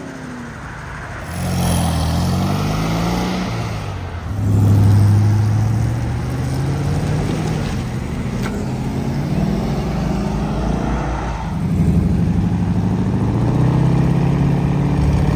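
Car engines accelerating away one after another, each rising in pitch as it pulls off. The loudest pass comes about five seconds in, and another engine swells near the end.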